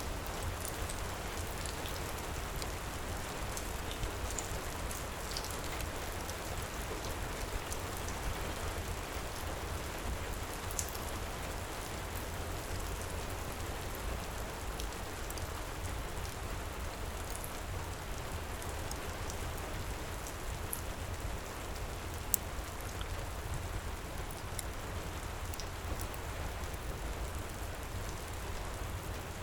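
Steady heavy rain with a crackling fireplace: an even wash of rain with a low rumble beneath, and scattered small crackles and pops, one sharper pop about three-quarters of the way through.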